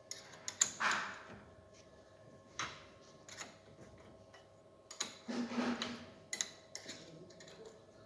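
Hand tools working on a car's steering rack: irregular metallic clicks and knocks, with two longer scraping sounds about a second in and again past the middle.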